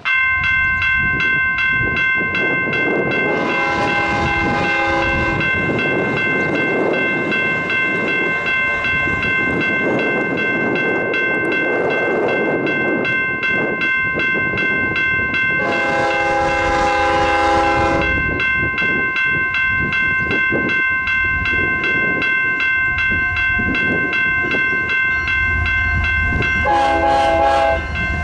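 Grade-crossing warning bell ringing steadily over the rolling clatter of a passing freight train. A diesel locomotive horn blows three times, each blast about two seconds long: a few seconds in, midway, and near the end.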